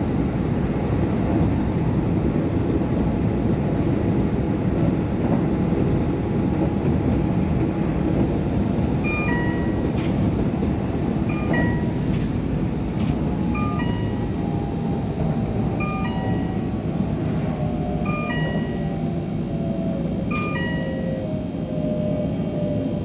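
Keihan electric train running on the line: a steady rumble of wheels and motors, with a falling motor whine in the second half as the train slows. From about nine seconds in, a two-note chime, high then lower, repeats about every two seconds.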